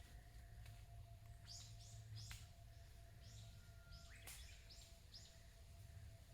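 Faint wild bird calling: a series of about eight short, high chirps spread over a few seconds.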